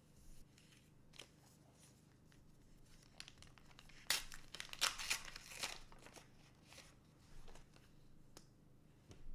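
Booster pack wrapper being torn open and crinkled, with scattered small ticks and a denser rustle of tearing about four to six seconds in.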